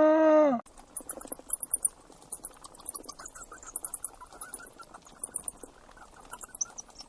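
A pitched animal call, likely a goat or sheep bleat, ends about half a second in. Then comes a long run of rapid, high-pitched squeaks and chirps from a small animal, in quick trains with short gaps between them.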